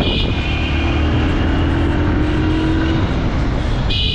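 Motorcycle running through city traffic, with loud road and wind noise on the microphone and a steady engine note through the middle. A high-pitched horn sounds briefly at the very start and again near the end.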